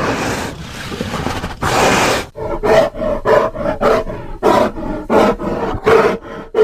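Grizzly bear roaring: a long rough roar for about two seconds, then a run of short growling pulses, about three a second.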